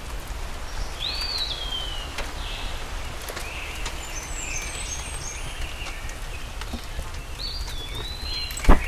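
Birdsong over a steady low outdoor rumble: a whistled call rises and slides down twice, with short chirps between. A sharp thump comes near the end.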